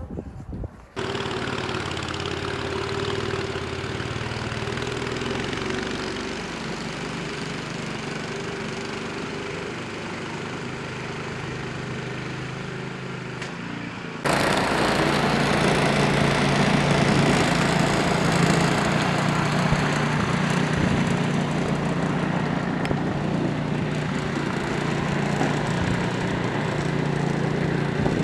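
An engine running steadily; about fourteen seconds in it switches abruptly to a louder, deeper engine hum.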